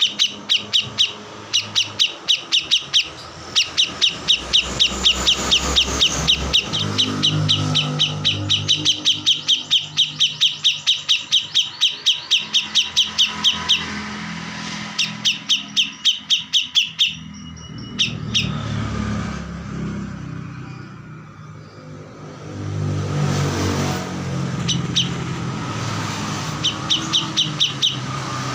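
A kores songbird singing prolifically: long runs of sharp, evenly repeated chirps, about four or five a second, broken by short pauses. A low rumble runs underneath.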